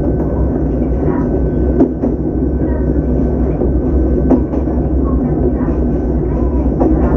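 Electric train of the Ohmi Railway Taga Line running along single track, heard from inside the driver's cab: a steady low rumble, with three sharp clacks of the wheels over rail joints about two and a half seconds apart and a faint steady high tone.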